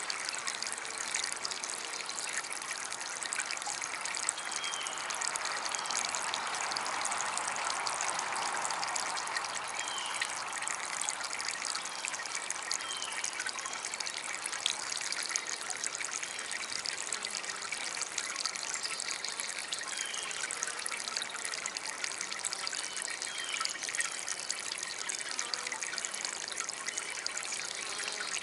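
Water from a small DIY water fountain trickling and splashing steadily, a little fuller for a few seconds near the start, with faint short chirps now and then.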